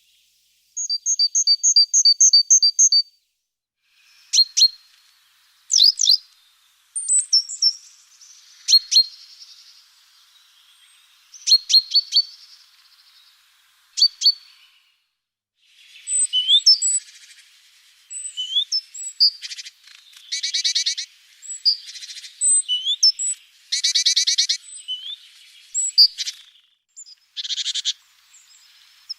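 Small songbirds chirping and singing: a quick series of about eight high notes a second in, then scattered sharp chirps, with denser, louder trills in the second half.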